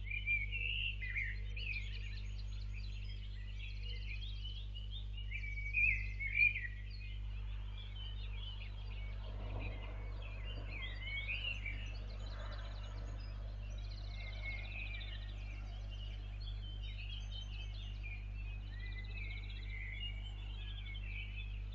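Several songbirds chirping and trilling continuously, their calls overlapping, over a steady low hum.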